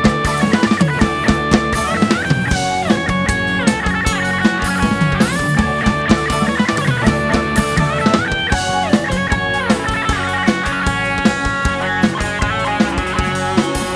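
Live rock band playing an instrumental break: a lead guitar line with sliding notes over a steady drum-kit beat and bass.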